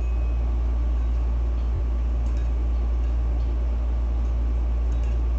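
A steady low hum at an even level, with faint scattered ticks and no other clear sound.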